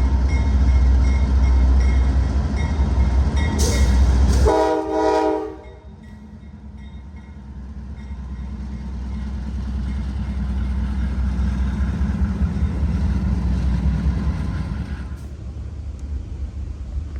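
Diesel freight locomotives running past with a heavy low rumble, cut by one short multi-tone horn blast about four and a half seconds in. After the horn the rumble drops away, then the passing train's rumble slowly builds and eases off again near the end.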